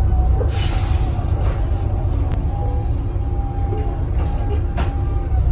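Volvo B7TL bus heard from on board: the diesel engine's steady low rumble, a short hiss of released air about half a second in, and faint high whistles coming and going.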